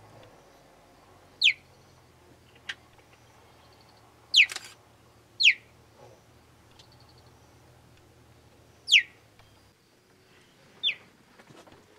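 An animal's short, high-pitched chirps, five of them, each sweeping sharply down in pitch, spaced irregularly a second or more apart.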